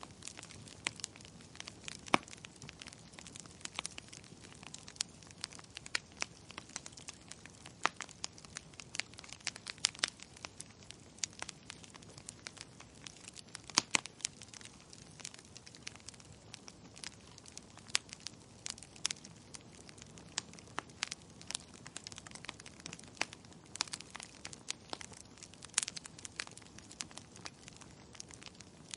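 Wood fire crackling: a dense, irregular run of sharp pops and snaps over a faint hiss, a few of them much louder than the rest.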